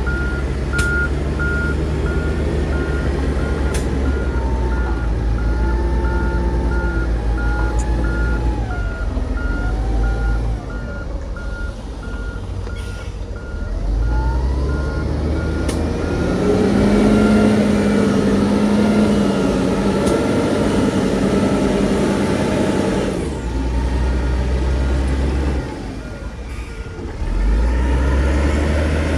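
Heavy diesel earthmoving machinery running, with a reversing alarm beeping steadily for the first third. Near the middle an engine revs up under load and runs loudest for several seconds, drops back near the end, then picks up again.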